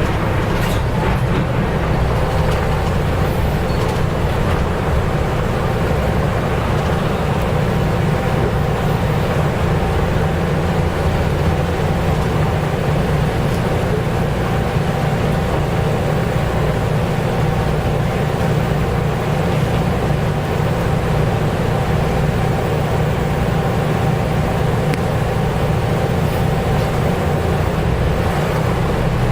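Nissan Diesel U-UA440LSN city bus under way, heard from inside the cabin: its diesel engine and drivetrain make a steady low drone with road noise, and a faint steady whine runs over it.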